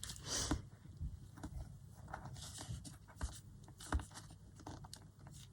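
Paper pages being handled and rustled, with scattered light clicks and taps of craft tools, and a sharper tap about four seconds in.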